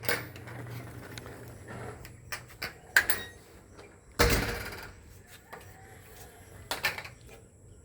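A house side door being opened and shut, with latch clicks and a knock, the loudest one a thud about four seconds in as the door closes.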